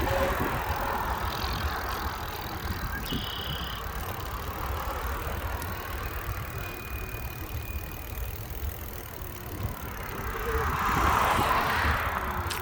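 Cars passing on a road while cycling: a car's noise fades away after the start and another swells past near the end, over a steady low rumble.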